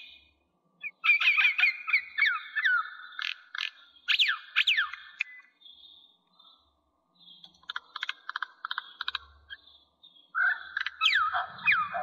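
Bird calls: bursts of quick, falling whistled notes and rapid clicking trills, with a short pause in the middle and louder calling again near the end.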